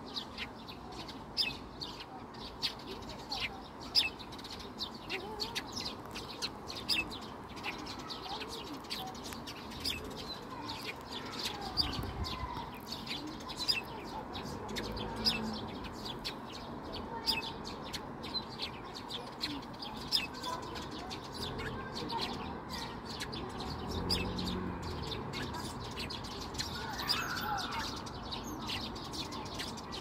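Small songbirds chirping busily out of sight, a rapid stream of short, high chirps overlapping one another.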